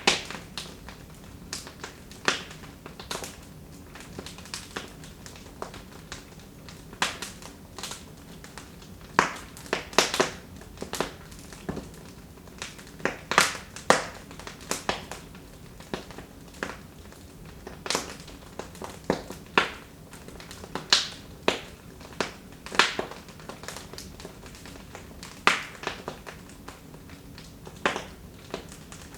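Wood fire in a fireplace crackling: irregular sharp pops and snaps, a few to several a second and some louder than others, over a faint steady hiss.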